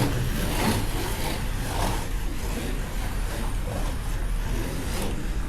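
Slot cars running laps on a racing track: a steady mechanical buzz from their small electric motors and from the cars on the track.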